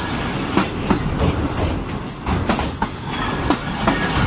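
Pakistan Railways passenger coaches rolling past close by: wheels clattering over the rail joints in a run of sharp clicks and knocks over a steady rumble.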